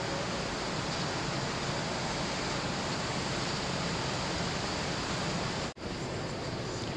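Steady, even background noise, a hiss-like hubbub without distinct events. The sound drops out for an instant a little before the end.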